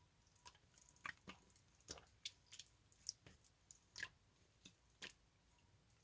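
Slime being pressed and poked by hand: scattered small, sticky clicks and pops, one or two a second, quiet.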